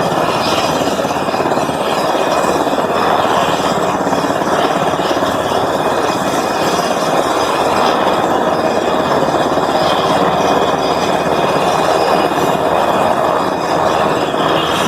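Sikorsky S-70A Black Hawk helicopter running close by, its twin turboshaft engines and rotor making a loud, steady noise with a high whine on top.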